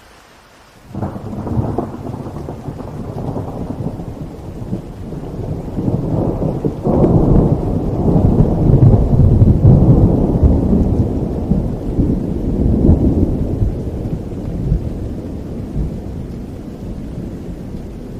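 Thunder rolling over steady rain: a long low rumble starts suddenly about a second in, builds to its loudest near the middle and slowly fades.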